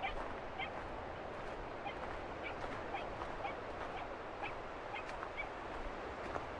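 Birds calling in short, high calls, about two a second and unevenly spaced, over a steady rushing background of outdoor noise.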